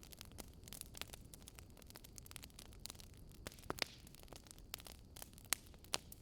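Wood fire crackling: irregular sharp pops and snaps, a few louder ones in the second half, over a faint steady low rumble.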